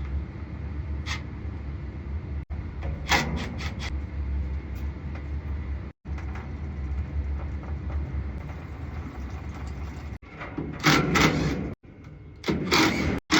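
Metal access doors and panels of a diesel generator enclosure clanking and banging as they are opened and handled, over a steady low rumble. The clanks come once about three seconds in and then in a louder cluster near the end.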